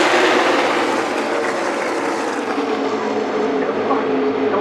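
A pack of NASCAR Cup Series V8 stock cars racing past, a loud engine drone that falls in pitch over the first second as the pack moves away, then settles into a steadier, somewhat quieter drone.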